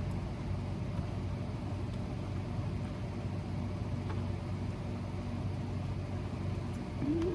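A steady low mechanical hum with faint scattered clicks, and a short rising tone near the end.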